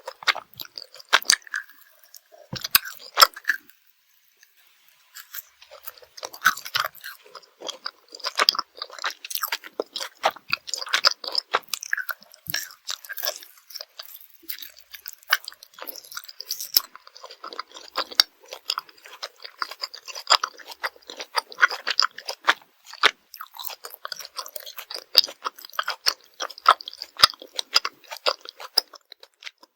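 Close-miked chewing of Swedish gummy candy: a dense run of irregular wet, sticky chewing clicks, with a short pause about four seconds in.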